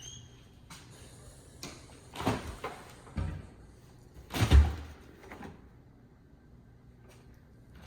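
A door being handled: a few knocks and scrapes, then a heavier thump about four and a half seconds in.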